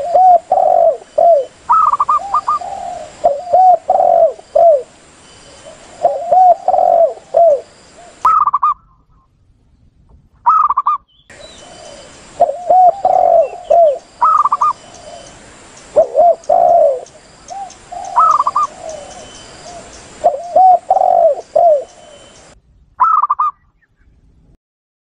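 Doves cooing: repeated phrases of low rounded coos, with higher coo notes between them. The phrases are broken by short pauses a few seconds apart. It is a lure-call recording used to draw wild doves in.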